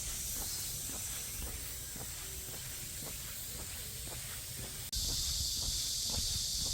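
Cicadas droning in a steady high-pitched chorus, with footsteps on a path about twice a second and low wind rumble on the microphone. About five seconds in the sound cuts out for an instant and returns louder, the drone fuller and lower.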